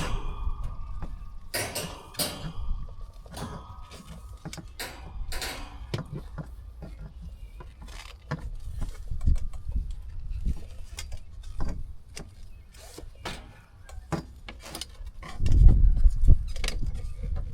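Copper refrigerant tubing being bent and handled by hand: scattered light clicks and taps, with a faint thin tone in the first few seconds. A louder low rumble comes in near the end.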